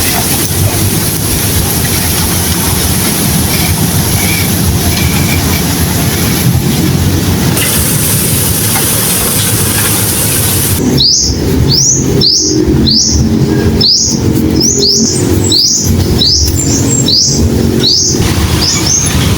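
Loud, steady background noise. About halfway through, a bird starts chirping repeatedly in short, high, quick sweeping calls, about one or two a second.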